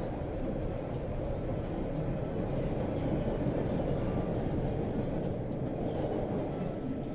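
Steady rumble of a subway train running, heard from inside the carriage.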